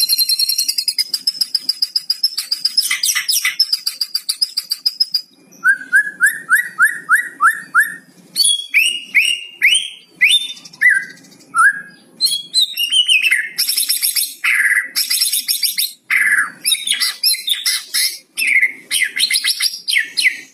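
White-rumped shama (murai batu) singing a varied, loud song. It opens with a high, fast rattling trill for about five seconds, then gives a run of about eight quick down-slurred whistles, then mixed whistled and chattering phrases.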